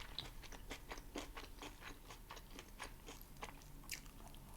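A person chewing a mouthful of soft burger close to the microphone: a string of small, irregular wet mouth clicks.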